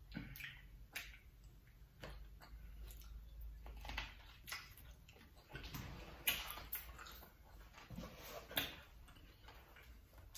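A person chewing food close to the microphone: irregular moist clicks, lip smacks and short crunches, the loudest bites about six and eight and a half seconds in.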